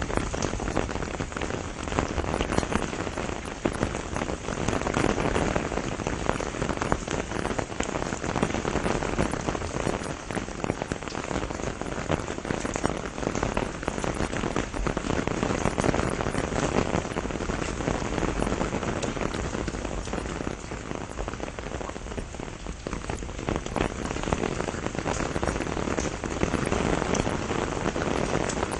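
Steady rain shower falling on the leaves of a pomegranate tree: a dense, even patter of drops that keeps up without a break.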